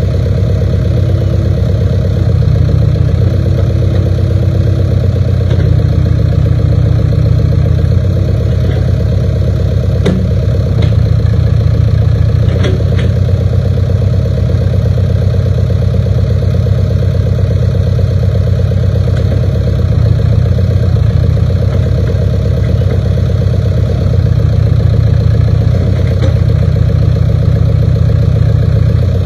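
1988 Case 580K backhoe loader's diesel engine running steadily at about idle, its low note shifting slightly now and then, with a few light knocks or clicks in the middle.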